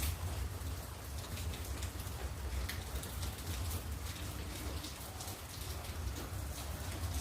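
Steady rain falling, with many individual drops ticking through the hiss and a low rumble underneath.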